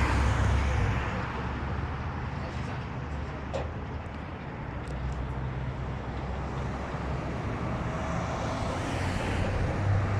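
Trucks in a passing caravan, their engines rumbling low with road noise; the sound is loudest at the start, fades in the middle and builds again near the end as more trucks approach. A few faint ticks come about four seconds in.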